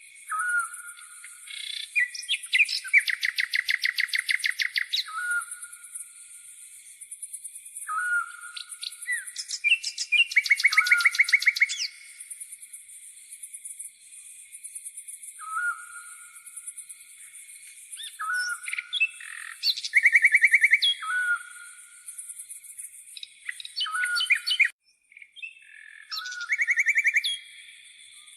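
A songbird sings repeated phrases of short call notes and fast trills, one every few seconds, the trills loudest. Underneath runs a continuous high-pitched chirring of grasshoppers.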